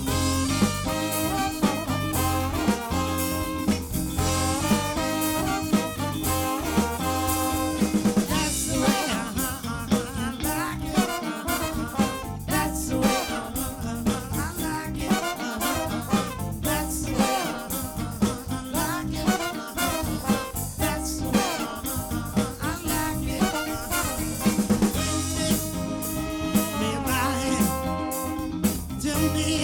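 A live band playing an up-tempo number with a drum kit beat and a horn section.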